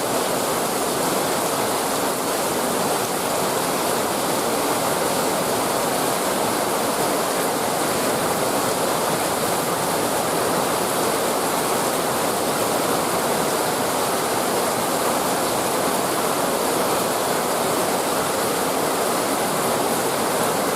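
Heavy rain falling as a steady, dense hiss that holds even throughout.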